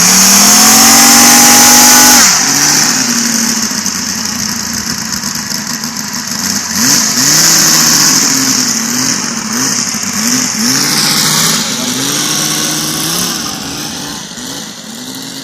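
Five-cylinder model radial engine running at high throttle for about two seconds. It is then throttled back, and its pitch dips and rises again and again as the throttle is worked. It grows fainter near the end.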